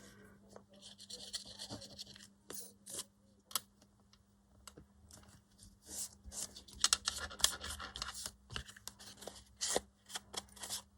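Paper and card being handled and cut: irregular rustling and scratching with small sharp clicks, busier in the second half.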